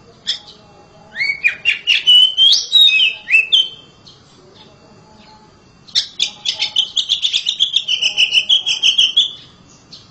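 Oriental magpie-robin singing loudly: a phrase of rising and falling whistled notes, then, after a pause of about two seconds, a fast run of short repeated notes lasting about three and a half seconds.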